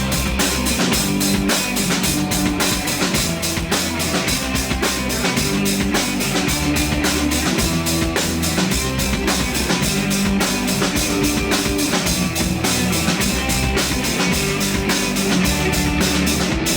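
Rock band playing an instrumental passage on drum kit, bass and electric guitar, with a fast, steady beat of drum and cymbal strikes.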